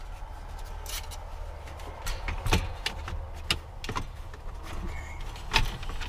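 Scattered clicks, taps and knocks as the skylight's interior lining panel and its screws are handled and pushed into place. The loudest knocks come about two and a half and five and a half seconds in, over a steady low hum.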